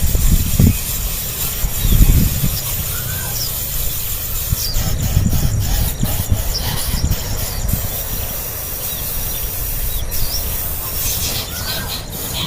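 Nestling birds giving short, high begging chirps now and then, over low rumbling and knocking from handling near the microphone.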